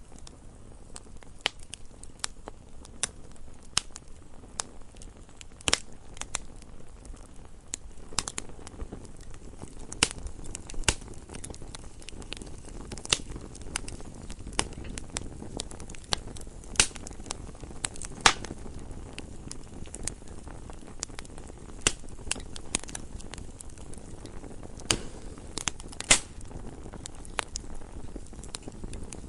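Campfire burning and crackling, with irregular sharp pops and snaps of burning wood over a steady low rumble of the flames.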